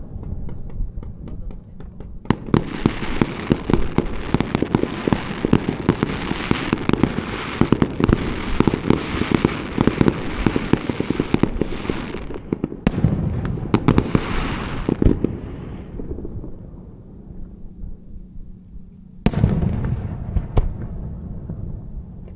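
Aerial fireworks bursting, with a dense run of rapid crackling pops from about two seconds in to about fifteen. After a brief lull comes one sharp bang near the end, followed by more crackle.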